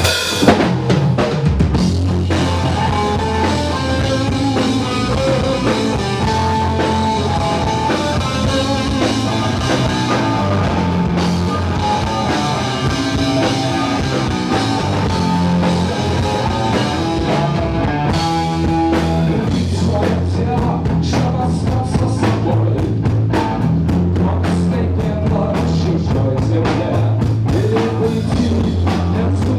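Live rock band playing a song with drum kit and bass, opening on a loud hit just after the start.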